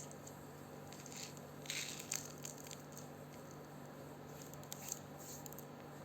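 Small crisp clicks and crunches from a parrot's beak nibbling, in two short clusters: one a little over a second in and another near five seconds.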